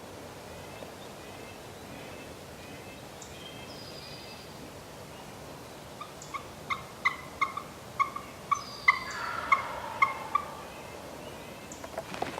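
Wild turkeys calling at close range: a run of about a dozen short, evenly spaced calls, about three a second, starting about six seconds in. Faint small-bird chirps come before it.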